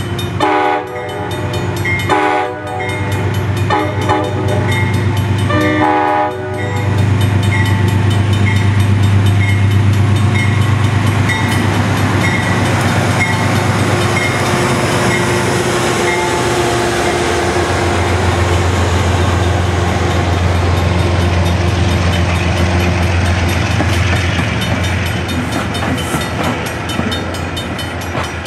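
Passenger train's horn blowing four blasts (long, long, short, long: the grade-crossing signal) as it approaches, over a bell ringing about twice a second. Then the diesel engine drone and the coaches rolling past, with the engine note dropping a little lower as the locomotive goes by.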